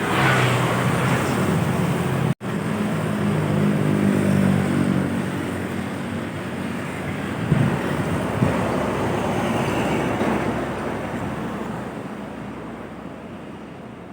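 Heavy truck or bus engine passing close by, its pitch sliding down as it goes, then fading away along the road. Two sharp thumps come partway through, and the sound cuts out for an instant near the start.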